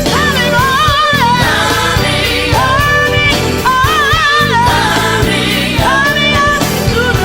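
Gospel vocal group singing in harmony, sung phrases with a wavering vibrato repeating every second or two, over a band with bass and a steady drum beat.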